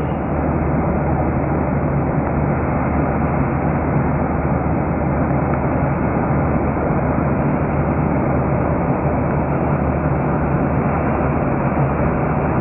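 Steady cabin noise of a jet airliner cruising at altitude: an even rushing hiss over a low hum, unchanging throughout.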